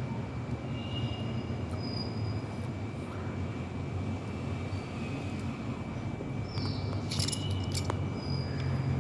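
Steady low background rumble with a few sharp clicks about seven seconds in.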